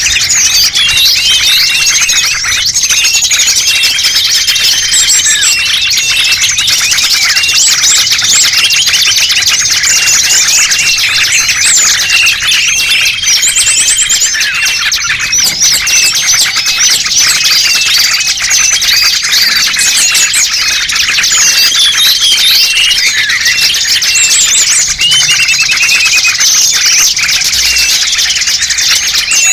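A dense chorus of many small songbirds chirping, twittering and trilling all at once without a break, a lure recording used to draw small birds in. It is loud and busy, full of rapid high chirps and short whistled trills overlapping one another.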